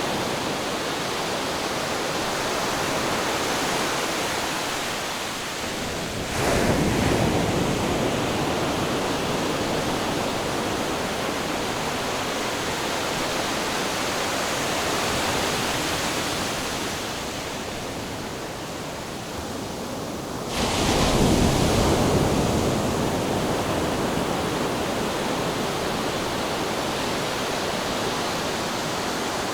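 Ocean surf: a continuous wash of waves, with two louder waves breaking, about six seconds in and again about twenty-one seconds in.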